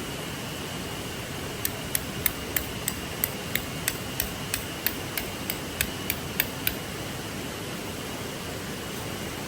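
A run of about sixteen sharp, evenly spaced taps, roughly three a second, starting near two seconds in and stopping about halfway, over the steady rush of a flowing stream.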